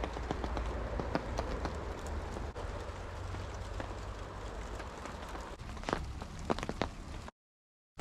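Rain falling, with scattered close drops ticking sharply over a steady hiss and a low rumble. The sound cuts off abruptly near the end.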